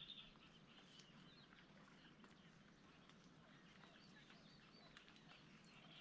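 Faint, scattered bird chirps and calls over a low, steady background hum, with a slightly louder call right at the start.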